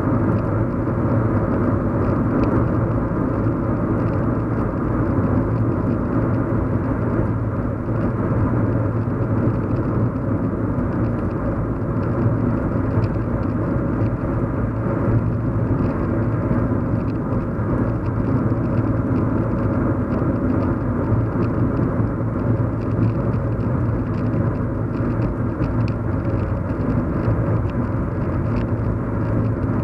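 Steady low road and engine hum inside a car's cabin while driving, even throughout with no distinct events.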